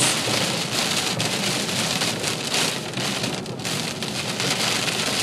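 Heavy rain pelting a car's roof and windshield as a steady, dense patter of drops.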